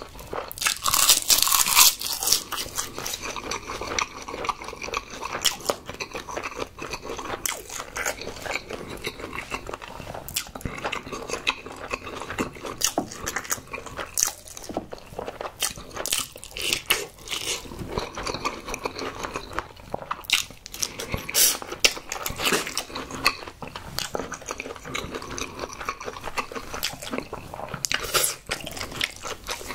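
Close-miked eating: crisp crunching bites of a dried seaweed (gim) wrap, loudest in the first couple of seconds, then steady chewing with many small crisp clicks throughout.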